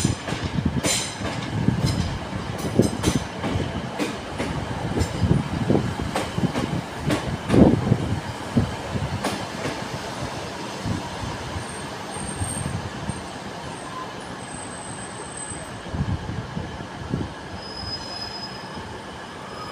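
Passenger train running slowly through a station: its wheels click over rail joints and points, with brief high-pitched wheel squeals about two-thirds of the way in and again near the end. The train noise fades off gradually.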